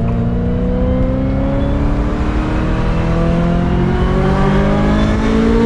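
Ferrari 355's V8 through its Tubi exhaust, accelerating hard at high revs with the pitch rising steadily as it pulls. It is heard from inside the open-top cabin.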